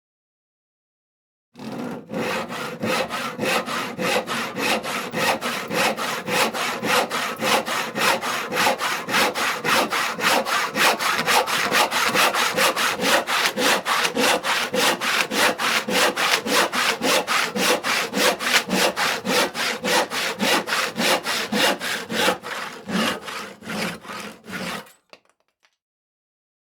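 Hand crosscut saw cutting through wood in quick, even back-and-forth strokes. It starts after a short silence and stops shortly before the end.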